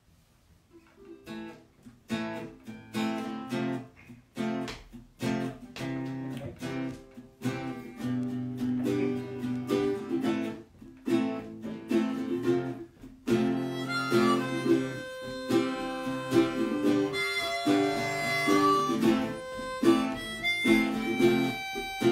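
Acoustic guitar strummed in a steady rhythm, starting about a second in after a brief hush. About halfway through, a harmonica joins, playing a held melody over the chords.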